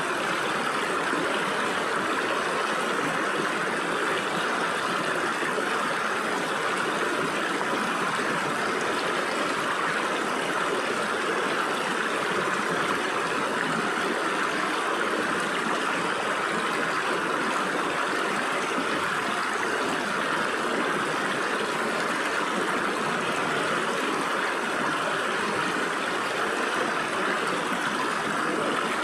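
Stream water flowing and splashing through gaps between rocks, a steady rushing sound without breaks.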